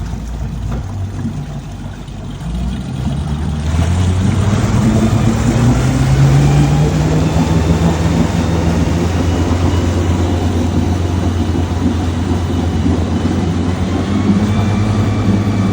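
Boat motor running in a test tank. About four seconds in it gets louder and its pitch rises over a few seconds, then it holds a steady speed. It runs smoothly: the motor the owner feared was blown up was not.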